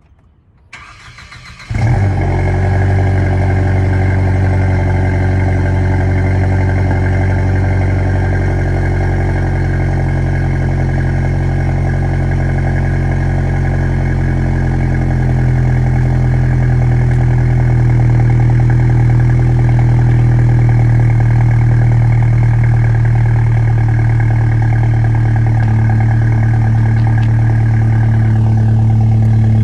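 2014 Mercedes C250's turbocharged four-cylinder cold-starting: a second of cranking, the engine catching about two seconds in, then running at a steady high cold idle. It sounds through an exhaust with the secondary catalytic converters and resonator removed and a dual-outlet muffler.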